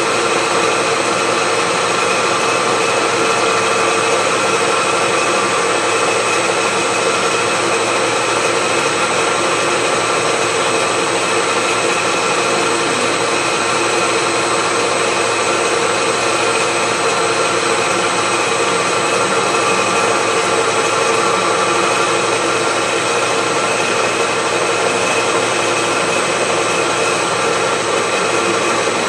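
Milling machine running steadily with a carbide end mill cutting into a hardened steel wood chipper blade, a continuous whine-and-grind with several steady high tones.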